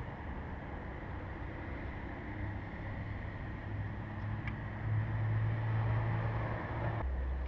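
Car engine running briefly on gasoline squirted into the intake manifold. It is a steady low hum that grows louder about five seconds in and drops to a lower tone near the end. It runs only on the injected fuel because no fuel is reaching the engine; the cause was a blown fuel pump fuse.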